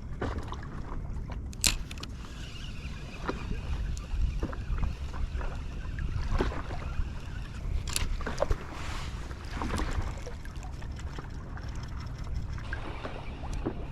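Water sloshing and splashing around a small craft on the sea, with a few sharp knocks and wind rumbling on the microphone.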